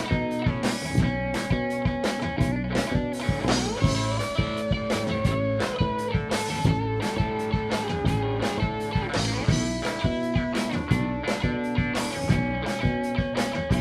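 Live rock band playing an instrumental passage: electric guitar over bass and a steady drum-kit beat, in a psychedelic rock style.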